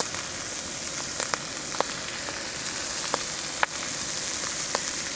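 Meat frying on a thin iron plate: a steady sizzle broken by a few sharp pops.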